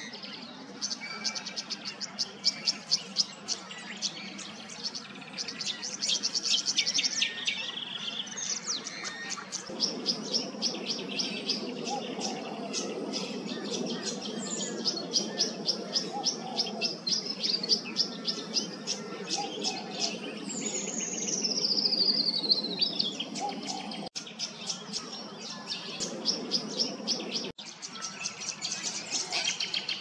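Tawny grassbird singing: rapid runs of short, high ticking notes, with one long descending trill about two-thirds of the way through. A low rumble runs underneath through the middle stretch.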